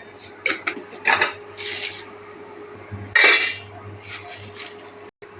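Kitchen clatter: utensils and dishes clinking and knocking in a string of short, irregular bursts, with some rustling.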